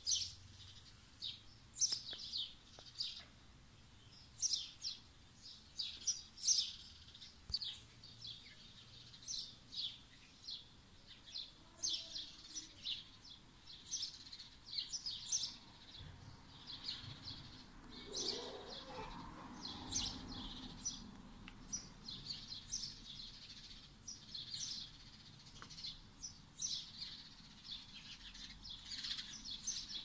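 Small birds chirping and twittering, many short, quick calls following one another throughout.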